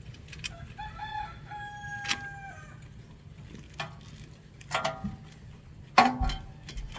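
A rooster crows once, a drawn-out call about a second in. Around it come several sharp clicks and knocks from work under the hood, the loudest about six seconds in.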